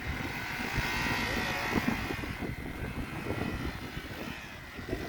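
Motorcycle engine running, with wind buffeting the microphone and a rough low rumble. The engine sound swells about a second or two in.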